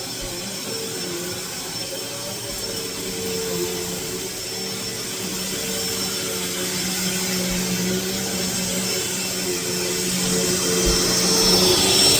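Eureka Lightspeed 4750A-2 upright vacuum cleaner running, a steady motor hum with a rush of air, turning louder and hissier near the end.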